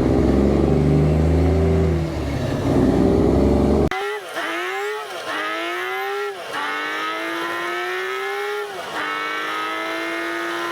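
A vehicle engine accelerating through the gears: its pitch climbs, drops at each shift and climbs again more slowly, three times, then holds steady. Before this, about four seconds in, a low steady rumble cuts off suddenly.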